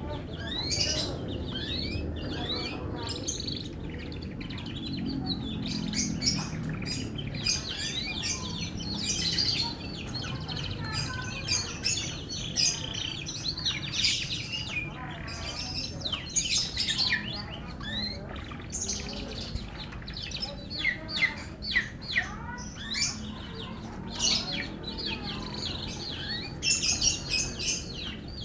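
Canary singing a long, continuous song of rapid trills and chirps.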